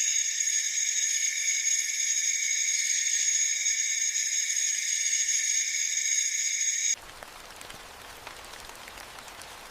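Steady, high-pitched chorus of night insects that cuts off suddenly about seven seconds in, leaving a faint hiss with light ticks like light rain.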